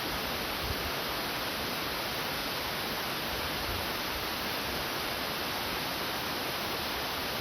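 Waterfall flowing over a rock face: a steady, unbroken rush of water.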